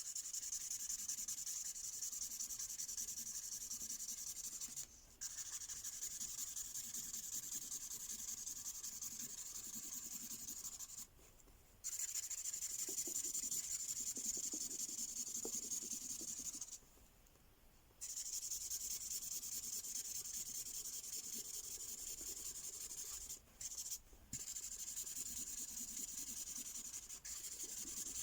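Felt-tip Mystery Ink pen rubbing back and forth on paper while colouring in, a continuous scratchy hiss broken by four short pauses.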